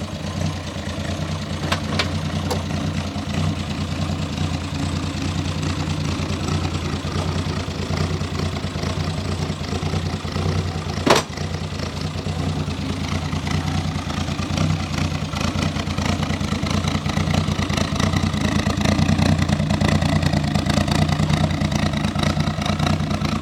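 A car engine idling steadily, with one sharp click about eleven seconds in.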